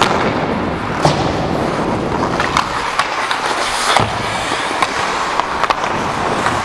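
Ice skate blades scraping and gliding over ice in a steady rough hiss, broken by a few sharp clicks.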